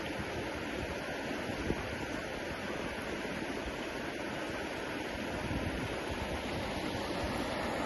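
Steady rushing water, an even, unbroken noise with no distinct events.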